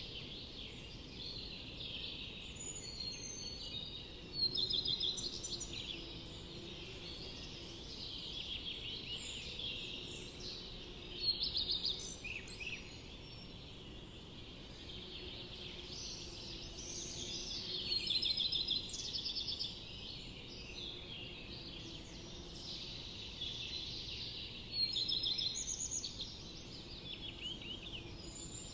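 Forest birds singing and calling together: a continuous chorus of overlapping chirps and quick trills, with a few louder nearby songs breaking in now and then.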